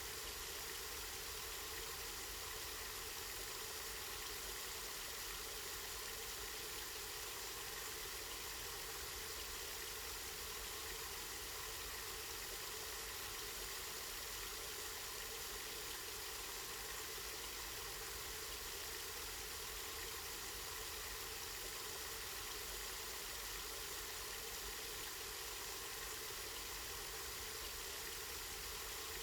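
Water running steadily from a spring, an even, unbroken rush of flowing water.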